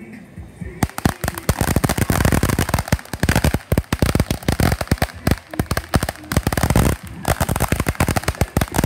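Fireworks going off in a rapid, dense string of sharp cracks and pops, starting about a second in, with a brief lull near the end.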